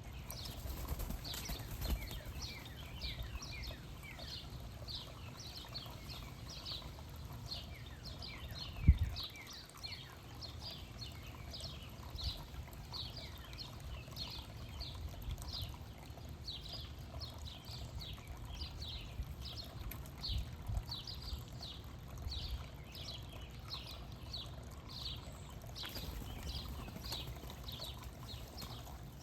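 A bird calling steadily: a long run of short, high, down-slurred notes, about two or three a second, over a low background rumble. A single sharp thump sounds about nine seconds in.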